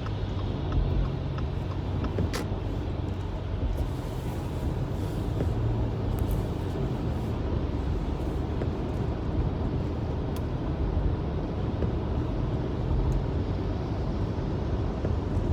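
Steady engine hum and tyre-on-road rumble heard from inside a car's cabin while driving at speed.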